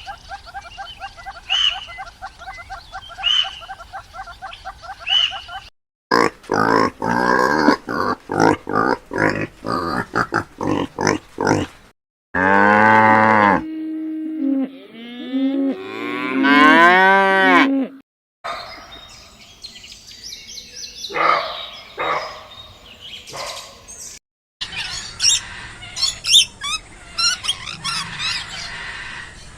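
A run of different animal calls, the loudest being long pitched cattle moos that slide up and down in pitch. Quicker repeated calls come before them, and high bird-like chirps come near the end.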